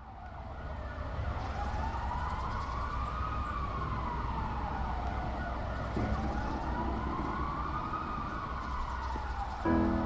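A siren-like wailing tone rising and falling slowly, about once every six seconds, over a steady low hum, opening a song; instrument notes come in near the end.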